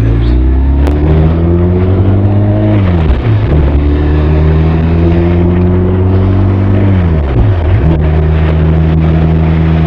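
Benelli TRK 502's 500 cc parallel-twin engine and exhaust under way, rising in pitch as it accelerates. The pitch dips sharply twice, about three seconds in and again near seven and a half seconds, as it shifts up through the gears, then holds steady at cruising speed.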